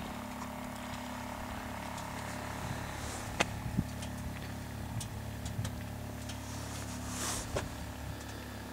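Motorcycle engine idling steadily, with a few light clicks and a brief rustle.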